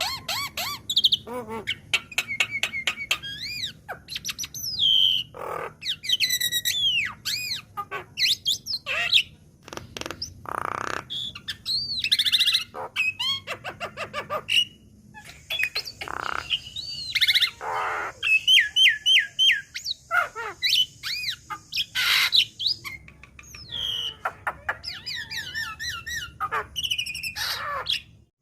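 Javan myna (jalak kebo) song: a continuous chattering stream of whistled notes gliding up and down, short trills and harsh squawks.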